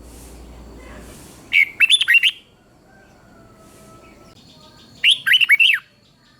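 Red-whiskered bulbul singing: two short, loud phrases of rapid falling whistled notes, about three seconds apart.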